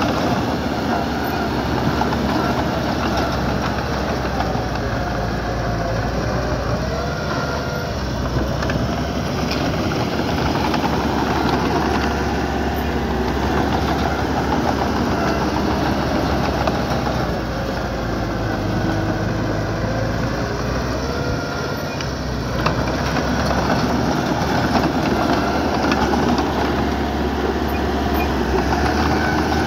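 Diesel engine of small earthmoving equipment running steadily and loudly, its pitch rising and falling as it works.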